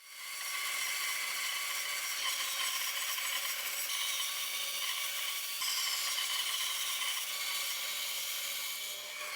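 A tool working wood, a steady abrasive rubbing noise that starts suddenly and runs on without a break.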